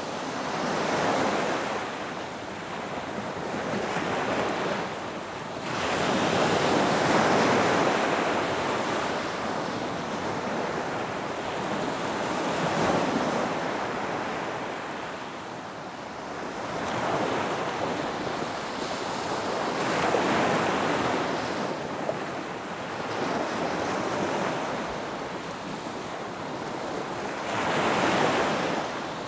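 Ocean surf: waves breaking and washing up a beach one after another, a continuous rush that swells with each breaker and eases between them. The biggest surges come about six seconds in and again near the end.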